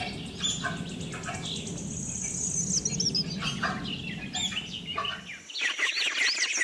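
Small birds chirping over a steady low background noise, with a few short calls scattered through. About five seconds in, the background noise drops away and thicker, busier chirping takes over.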